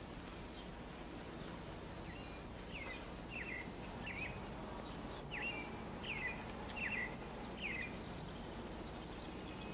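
A small bird chirping: about eight short chirps at uneven intervals over several seconds, above the steady hiss of an old film soundtrack.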